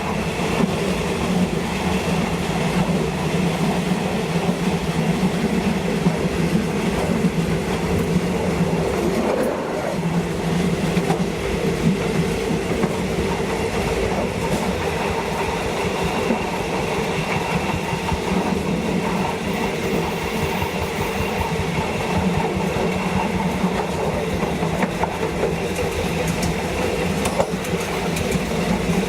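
A State Railway of Thailand train running along the line, heard from on board: a steady drone with the wheels clacking over rail joints.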